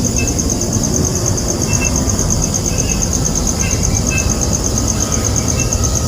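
An insect trilling steadily in fast, even pulses, over a loud low rumbling noise, with a few short faint high chirps now and then.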